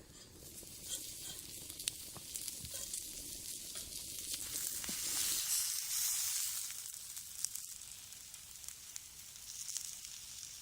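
Food sizzling in a cast-iron skillet over a wood fire, a steady hiss with scattered small pops, swelling louder about halfway through.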